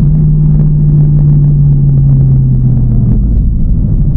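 TVR Chimaera's 4.65-litre V8 with a race cam, running at steady revs under way; its note drops a little about three seconds in.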